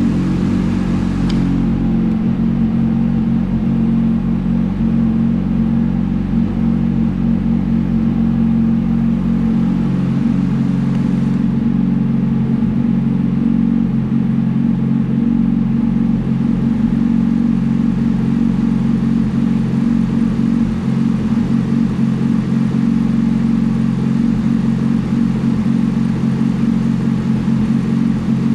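Yamaha YZF-R6's inline-four engine running at a steady, unchanging speed.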